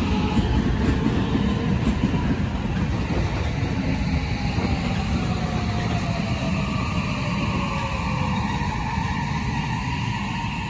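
Shin-Keisei electric commuter trains running through the station, their wheels rumbling on the rails, with a faint falling whine around the middle. The sound slowly fades toward the end.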